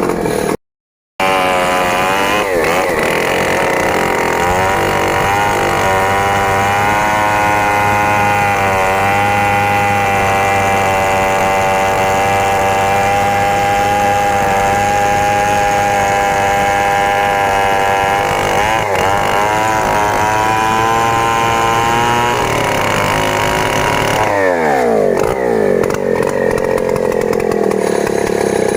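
Stihl 070 two-stroke chainsaw running at high revs while cutting, its pitch sagging and recovering under load. About 24 seconds in, the revs drop and it settles to idle.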